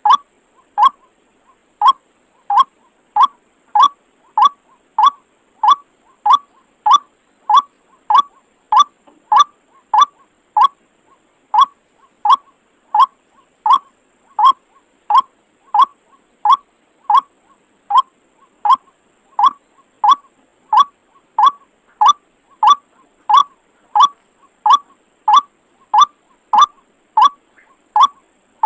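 White-breasted waterhen (ruak-ruak) call: a single short note near 1 kHz repeated at a very even pace, about four notes every three seconds.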